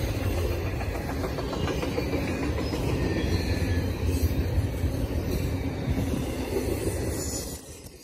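Double-stack intermodal well cars rolling past on steel rails: a steady rumble of wheels and cars, which drops off briefly near the end.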